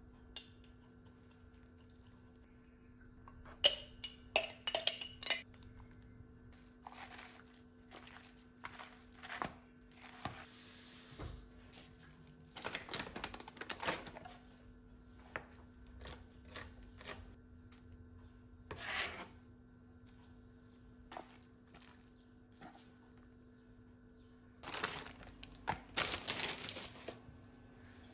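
Kitchen food-prep handling: dishes, cutlery and containers clinking and scraping at irregular intervals, with a few louder clusters of clatter and rustling, over a faint steady hum.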